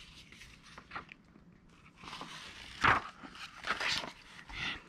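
Soft rustling and scattered light taps, loudest in a short burst about three seconds in: handling noise, like paper and hands moving close to the microphone.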